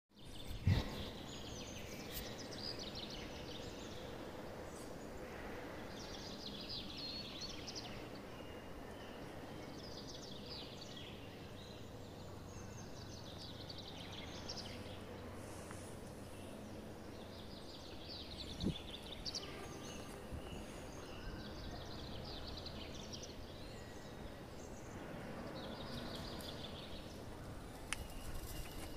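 Songbirds singing short, rapid phrases every couple of seconds over a low, steady background noise, with a soft knock about a second in and another about two-thirds of the way through.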